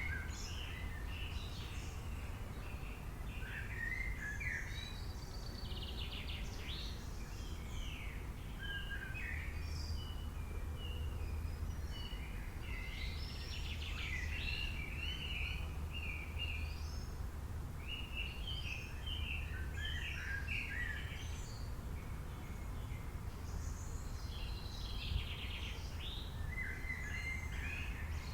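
Several wild birds chirping and singing in short, overlapping phrases, over a steady low background rumble.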